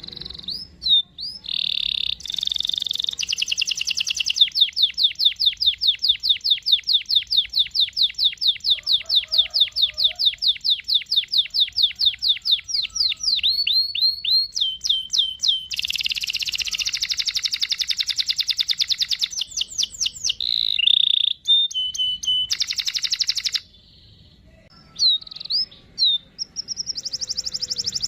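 Domestic canary singing: long rolling trills of rapid repeated notes, broken by short buzzy passages, then briefly falling silent near the end before the trills start again.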